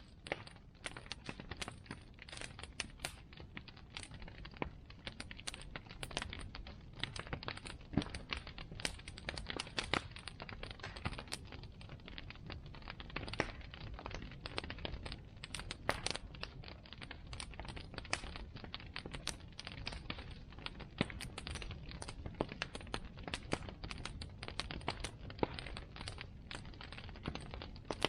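Bonfire burning, with dense, irregular crackles and pops over a steady low rumble.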